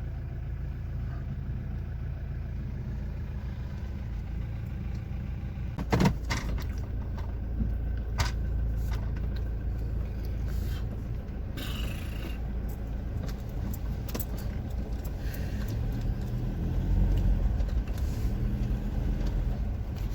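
A car driving: steady low engine and road rumble, with a few sharp knocks and rattles, one about six seconds in and another about two seconds later.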